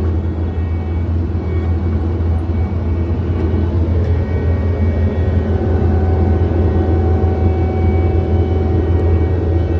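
John Deere 317 skid steer's diesel engine running steadily under work, a strong low hum, with a thin steady whine that comes in about six seconds in.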